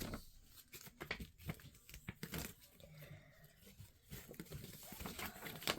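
Faint, irregular rustling and crinkling of paper and plastic packaging being handled, with scattered small clicks and taps.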